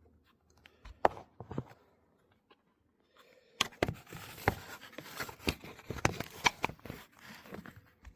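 Handling noise from a camera or phone being positioned by hand. A few knocks come about a second in, then after a short pause a dense run of clicks, taps and rubbing.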